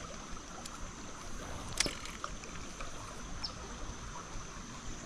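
Creek water running steadily, with a single sharp click about two seconds in.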